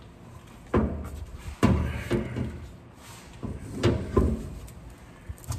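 About five separate metal knocks and clunks, spaced irregularly and the loudest at just under two seconds in, as a truck drive shaft is worked up into place against its four-bolt yoke.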